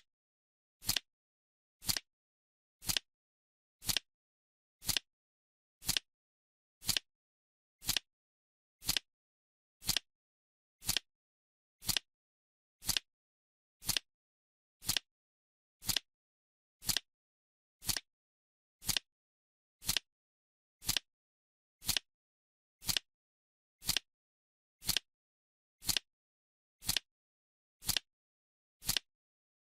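Countdown timer's clock-tick sound effect, one sharp, even tick every second with dead silence between ticks.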